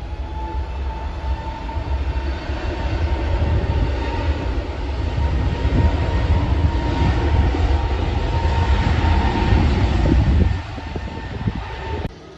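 Jet airliner engines roaring as the aircraft passes: a deep rumble under a broad roar with a steady whine, building toward the middle, then the rumble drops away sharply near the end.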